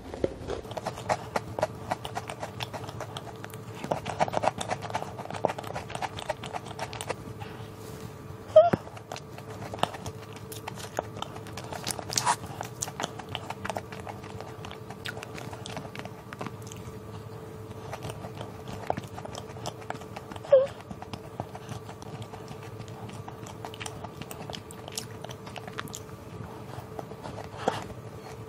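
Close-up biting and chewing of a Lotus biscuit cookie with marshmallow filling: many small crisp crunches and wet mouth sounds, with two louder smacks, one about a third of the way in and one about two-thirds in. A faint steady hum runs underneath.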